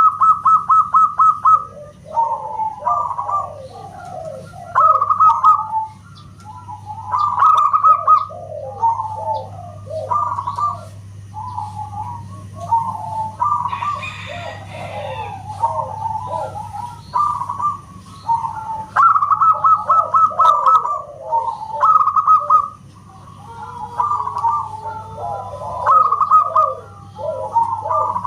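Zebra dove (perkutut) cooing song, phrase after phrase: gliding coos followed by quick runs of short staccato notes, repeated without pause. A steady low hum lies underneath.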